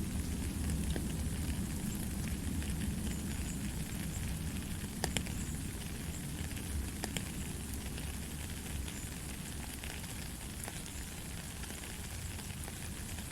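Steady rain falling: an even hiss with a low rumble beneath it and scattered sharp drip ticks, the clearest about five seconds in.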